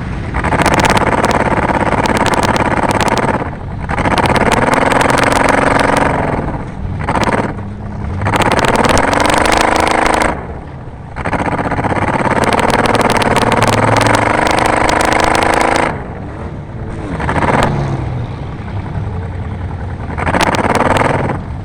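Car engine at full throttle, revving up and easing off four times in long loud pulls with short lifts between, the engine pitch sliding as it goes. Sharp clicks and rattles come through over it.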